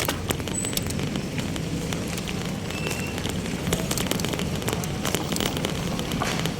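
Crackling on the microphone over a steady rumble of street traffic, with scattered sharp clicks throughout.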